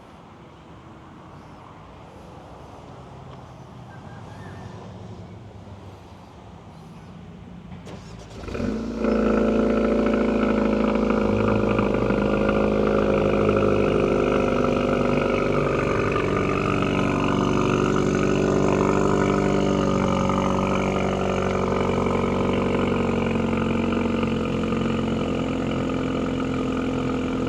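Mercedes-AMG GLB 35's turbocharged four-cylinder engine with a custom exhaust, cold-started about eight seconds in: a short crank, then it catches loudly and runs at a steady cold idle, easing down slightly near the end.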